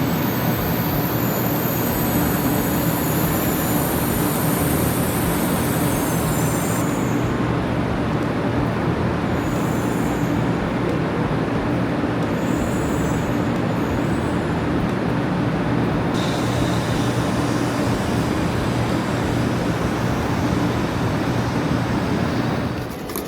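Train running: a steady rumble with a low humming drone, dropping away just before the end.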